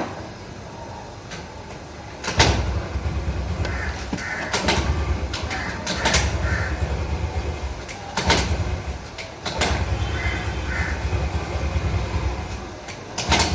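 A diesel-soaked cloth scrubbing a motorcycle drive chain: a low rubbing rumble in long stretches, starting about two seconds in, with a few sharp clicks of the chain and links between strokes.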